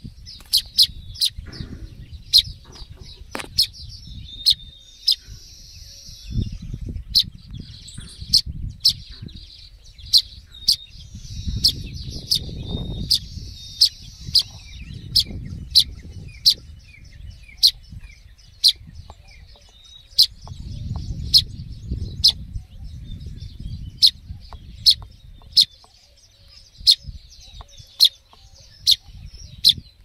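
A fledgling bird chirping over and over in short, sharp, high calls, one or two a second: the begging calls of a young bird. Bouts of low rumble run underneath at times.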